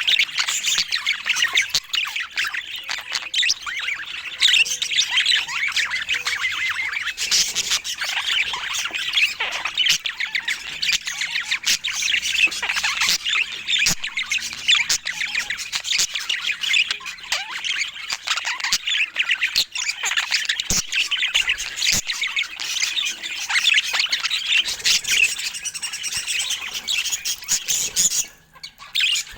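Budgerigars chattering and chirping without a break, a dense run of quick high chirps and squawks, with a brief lull shortly before the end.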